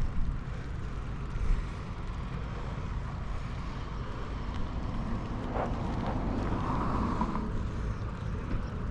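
Wind buffeting the microphone during a bike ride, a steady low rumble, with a brief higher-pitched sound a little after halfway.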